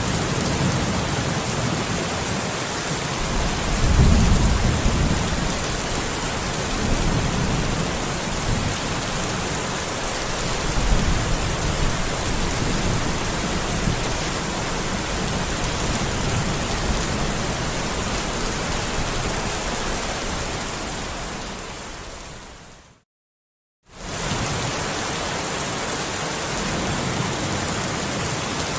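Steady rain with low rolls of thunder, the strongest about four seconds in and another around eleven seconds. Near the end the rain fades out into a second of silence, then steady rain starts again.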